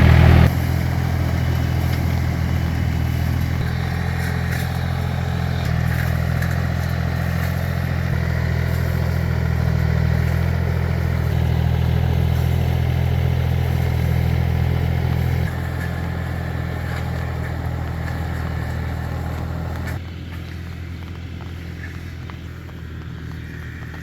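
Single-cylinder diesel engine of an agrimotor (two-wheel tractor) running steadily at an even speed. The level drops abruptly about two-thirds through and again near the end.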